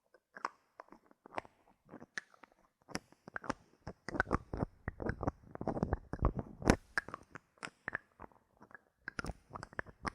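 Bottle caps handled close to the microphone: a run of irregular crisp clicks and crackly taps, thickest and loudest in the middle, with the sharpest click a little before seven seconds in.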